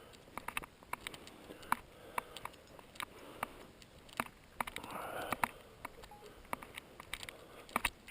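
Footsteps through wet grass: irregular soft clicks and rustles, with a longer rustle about five seconds in.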